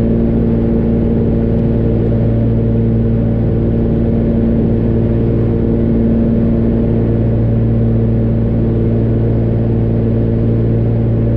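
Cessna 414A's twin piston engines and propellers droning steadily in flight, heard inside the cabin: a loud, even drone with a low hum and several steady tones, no change in power.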